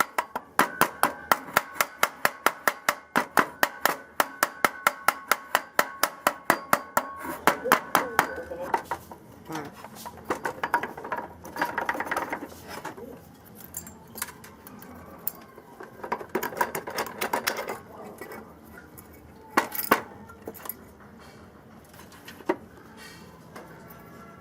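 A metal part struck with rapid, even hammer taps, about five a second, each tap ringing, for the first eight seconds. Then scraping and handling of metal parts, with one sharp knock near the end.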